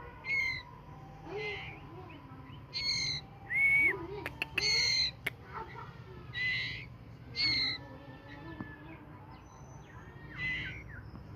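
White-rumped shama giving short whistled notes, each with clear overtones, about once a second, some rising and some level. A few sharp clicks come about four to five seconds in.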